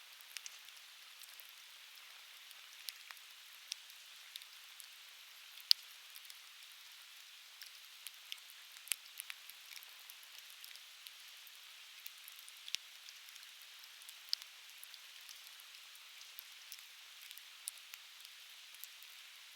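Softwood campfire burning in a fire pit, crackling with frequent sharp pops over a steady hiss; one pop about six seconds in is much louder than the rest.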